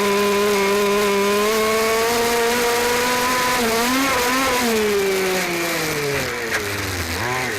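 Small single-cylinder 29cc two-stroke engine of a fifth-scale RC truck, heard from on board. It runs at high revs on held throttle for about four seconds, wavers briefly, then the revs drop off as the throttle is let go and pick up again near the end.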